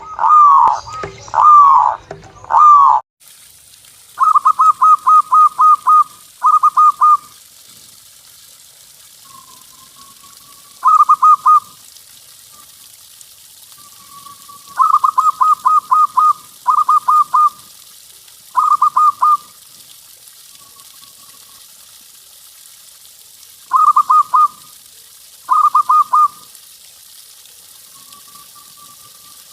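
Zebra dove (perkutut) cooing: about eight bursts of quick staccato coos, each a string of rapid notes lasting about a second, with soft lower coos between them. The first three seconds hold four louder, drawn-out coos before an abrupt change of recording.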